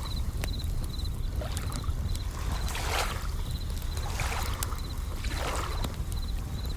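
Layered nature sounds: a campfire crackling with scattered sharp pops, waves washing in with recurring swells of hiss over a steady low rumble, and bell crickets (suzumushi) trilling in short pulsed chirps during the first second or so.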